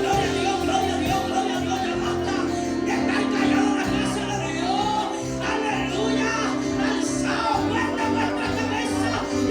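Pentecostal worship chorus music: singing over sustained keyboard chords with a steady beat.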